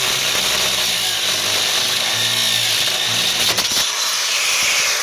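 DeWalt angle grinder with a cutting disc grinding through a steel coil spring, a steady loud hiss. Near the end it is lifted off with a click and its pitch falls as the disc winds down.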